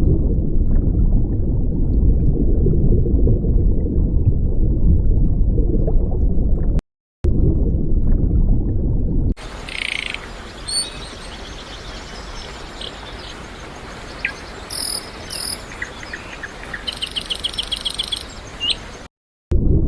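A dense low rumble for the first nine seconds or so, with a brief dropout. Then a quieter outdoor hiss with scattered high chirping calls and, near the end, a fast even trill.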